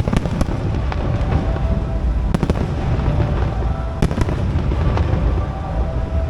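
Aerial fireworks bursting: repeated sharp bangs and crackles over a continuous low rumble, with the sharpest reports about a third of the way in and again about two-thirds in.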